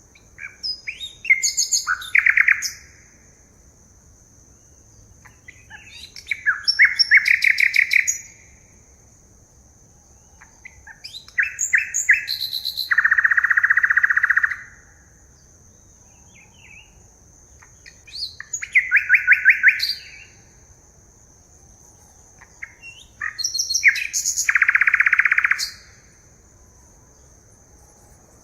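A forest songbird repeating its song five times, about every six seconds: each phrase is a quick run of sharp notes ending in a rapid buzzy trill. A steady high whine sounds underneath throughout.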